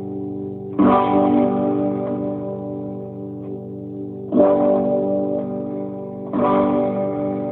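Jazzmaster electric guitar strumming chords three times, each chord left to ring out and slowly fade before the next.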